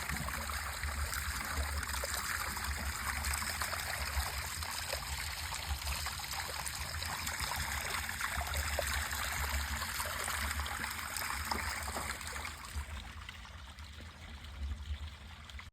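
Well water pouring steadily from a 2-inch overflow pipe and splashing into a pond, fed by a solar-powered well pump, over a low rumble. The water sound eases off somewhat near the end.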